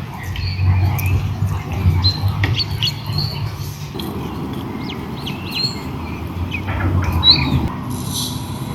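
Birds chirping and calling in short, quick notes, scattered throughout, over a steady low rumble. A brief hiss comes in near the end.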